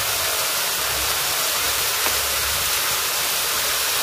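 Shredded cabbage frying and steaming in hot oil in a large karai: a steady, even sizzling hiss.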